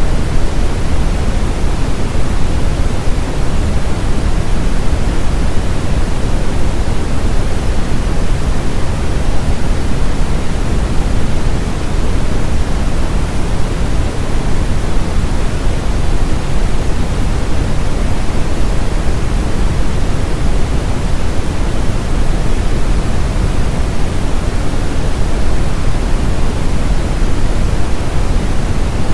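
Brown noise: a steady, even hiss-rumble weighted toward the low end, with no tones or events, used to mask tinnitus.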